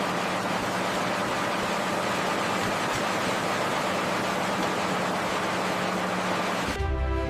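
Steady rushing noise with a faint low hum, which cuts off near the end as music starts.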